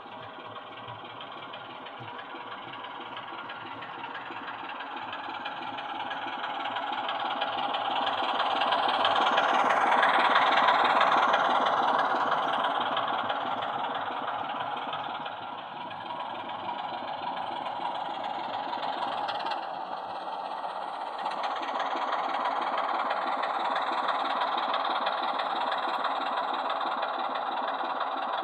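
Diesel engine sound of a Class 24 OO gauge model locomotive's onboard sound system, playing through its small speaker while the model runs on DC. It mostly sounds like an engine idling, swelling to its loudest about ten seconds in, easing off, then rising again.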